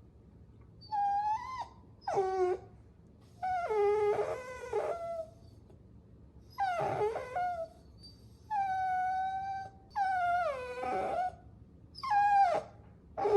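Puppy whining: about seven high-pitched whimpering cries, each under a second or so long, several sliding down in pitch, with short quiet pauses between them.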